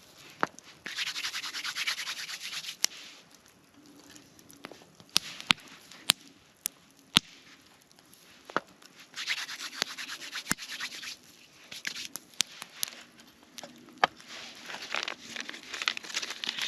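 Three spells of fast rasping scraping, each about two seconds long, with sharp clicks and snaps scattered between them.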